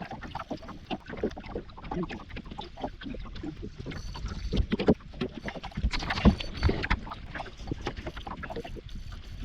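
Irregular knocks, bumps and clicks of gear being handled in a small boat on the water, with the loudest thumps about halfway through.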